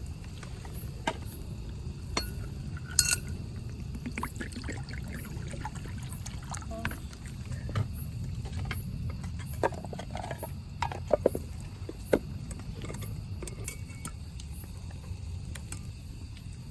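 Cookware and utensils clinking and tapping now and then, with liquid sloshing, over a steady low rumble; a few sharper clinks come close together about eleven to twelve seconds in.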